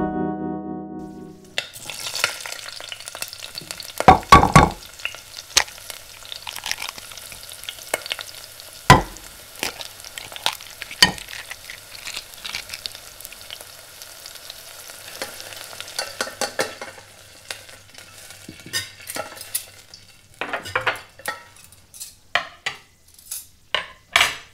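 Food sizzling in a frying pan, with a few sharp clanks of a utensil against the pan, then a quick run of short scraping strokes, about two a second, as the food is stirred. A guitar music sting dies away in the first second and a half.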